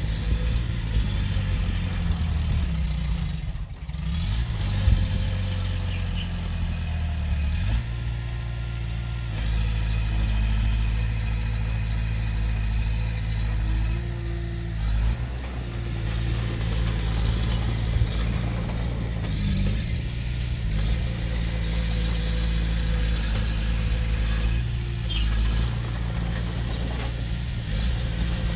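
Heavy-machinery diesel engine running steadily, its pitch shifting about 4 seconds in and again about 8 seconds in, with faint clinks over it.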